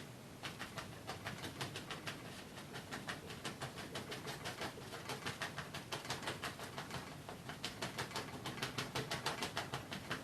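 Paintbrush dabbing against a wet oil-painted canvas in quick repeated taps, about five a second, coming faster toward the end.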